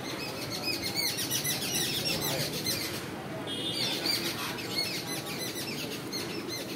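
Small birds chirping, many quick high chirps one after another, thinning out after about five seconds, over a low steady background noise.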